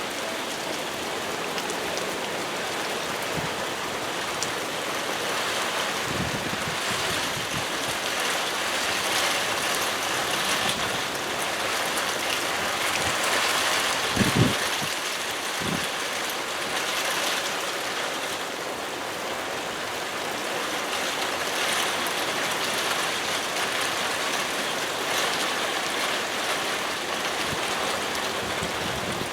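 Heavy rain falling steadily, a constant hiss of water, with two short low knocks about halfway through.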